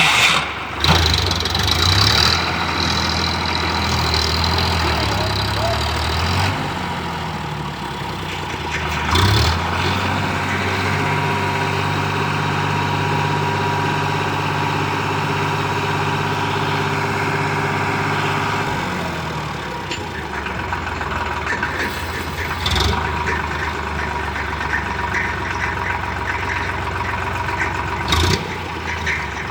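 Sonalika DI 50 tractor's diesel engine running, speeding up about a third of the way in, holding a higher steady note for around nine seconds, then dropping back to a lower run. A few short knocks sound over it.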